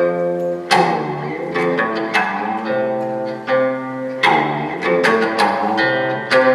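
Live string music: a guzheng's plucked notes struck in clusters, ringing over sustained notes from a bowed string instrument.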